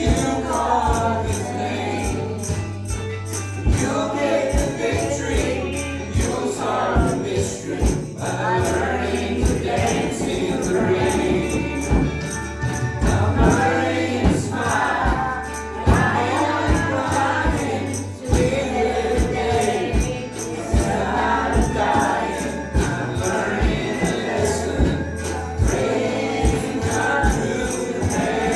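Gospel worship music: a group of voices singing over a steady beat, with tambourine and bass.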